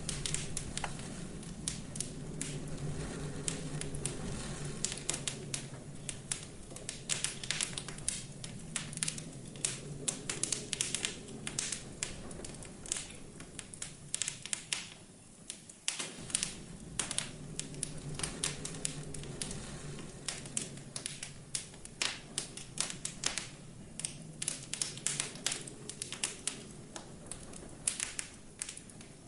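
Wood fire crackling, with a dense run of irregular sharp pops and snaps, over a low wind that swells and eases twice.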